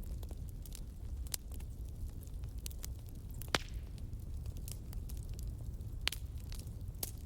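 Wood fire burning in a fireplace, with a steady low rumble and irregular sharp crackles and pops. The loudest pops come about halfway through and again about six seconds in.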